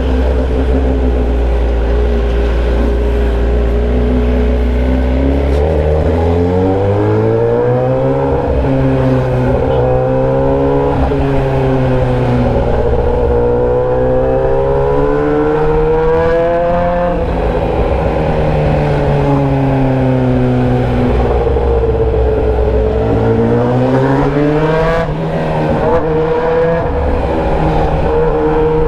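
Motorcycle engine running through an open exhaust pipe with the muffler removed while riding. After a steady stretch its pitch climbs in stages with short dips at the gear changes, falls back and holds, then climbs again near the end.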